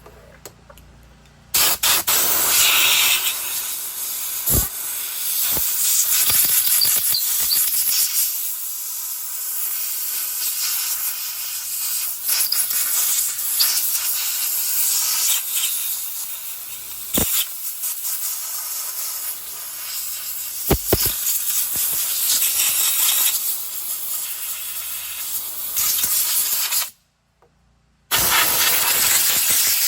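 Compressed-air blow gun hissing in long blasts, blowing sawdust out of a chainsaw's sprocket and clutch-cover area, with a few sharp knocks. The air cuts off abruptly near the end for about a second, then starts again.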